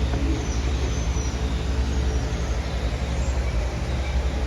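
Safari ride truck driving along, its engine running with a steady low rumble under road noise.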